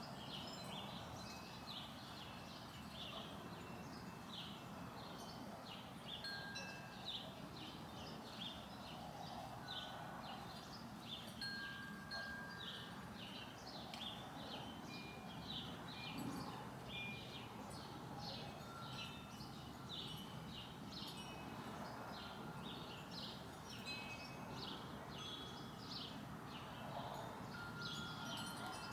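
Continuous chatter of many small birds: dense, short, high chirps overlapping throughout. A few brief clear ringing tones come in now and then.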